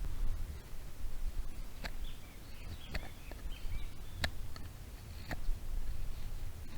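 A small bird chirping a few short calls about two to three seconds in, over a steady low rumble, with a few sharp clicks about a second apart.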